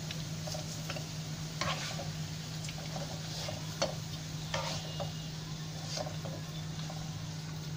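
Beef slices frying in hot oil with a light sizzle, while a ladle scrapes and knocks against the pan a few times as the meat is lifted out. A steady low hum runs underneath.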